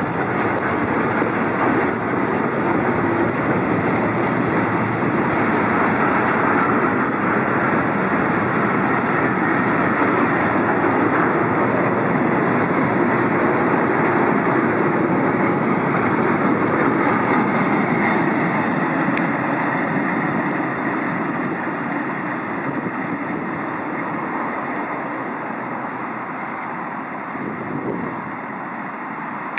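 Freight train of pressurised powder-tank wagons rolling past on the rails: steady wheel-on-rail noise that fades over the last several seconds as the final wagon draws away.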